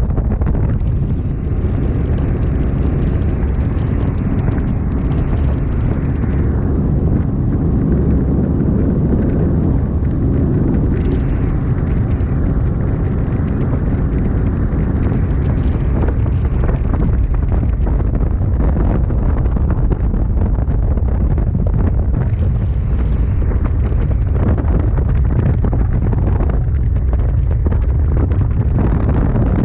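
Robinson R44 helicopter in flight, its piston engine and rotors running steadily, with heavy wind buffeting the microphone through the open door.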